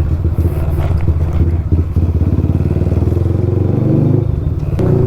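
Bajaj Pulsar NS200's single-cylinder engine running through an Akrapovic full-system exhaust while riding. The note climbs, then drops off briefly about four seconds in before carrying on steadily.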